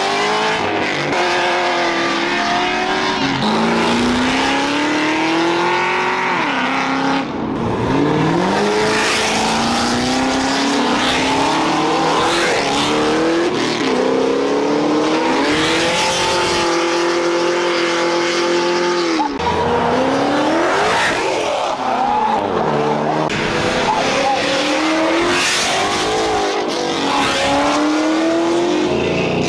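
A car's engine revving hard over and over, its pitch climbing and dropping every couple of seconds, with tyres squealing underneath: a burnout.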